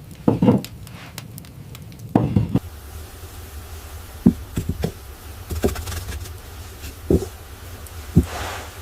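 Scattered knocks and thumps, about seven of them, with the loudest near the start and at about two seconds, over a steady low rumble.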